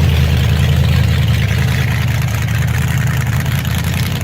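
A car engine running steadily with a deep, even low note, easing off slightly near the end.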